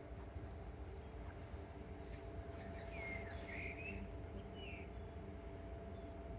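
A bird gives a few short chirps about halfway through, over a low, steady outdoor rumble.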